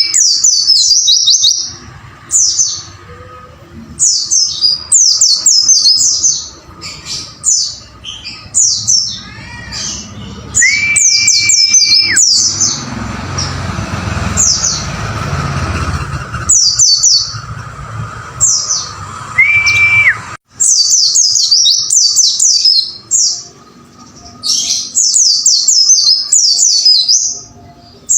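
White-eye (pleci) song: repeated phrases of rapid, high, falling chirps, each phrase lasting a second or two, with short gaps between. Three times a steady held whistle note lasts about a second and a half. A stretch of hiss runs under the middle.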